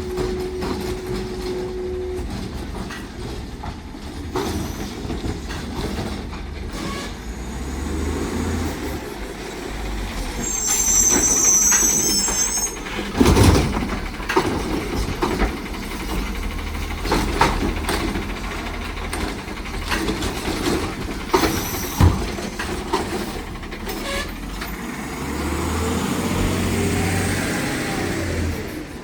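Garbage truck at work with its engine running throughout. A high metallic squeal comes about ten seconds in, and there are loud bangs about 13 and 22 seconds in.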